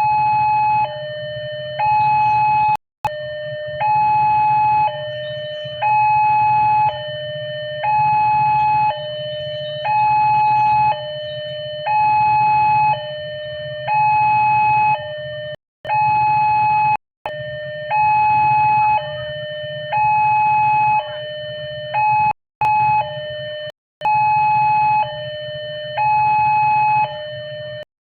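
Railroad level-crossing warning alarm sounding its electronic two-tone signal, alternating a higher and a lower tone about once a second each, the signal that a train is approaching and the crossing gates are closing. It cuts out briefly a few times.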